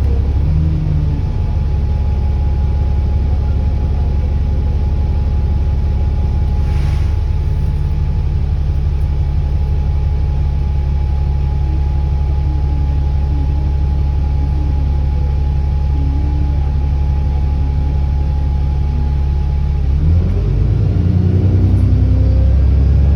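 Alexander Dennis Enviro400 double-decker bus's diesel engine holding a steady note with a thin constant whine. About 20 seconds in it revs up as the bus accelerates, the engine note and turbo whine rising together.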